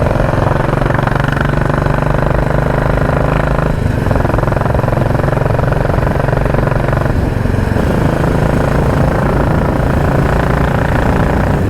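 Royal Enfield Classic 350's single-cylinder engine running steadily under way through a loud exhaust, with two brief dips in the note about four and seven seconds in.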